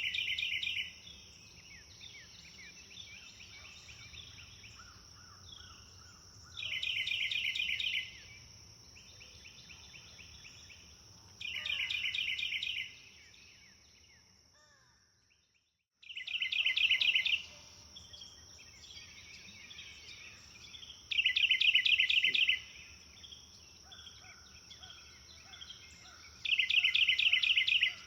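A songbird repeatedly singing a loud, fast trilled phrase of about a second and a half, roughly every five seconds, with other birds chirping more softly in between over a steady high-pitched hiss. About halfway through, the sound fades out to brief silence and then starts again.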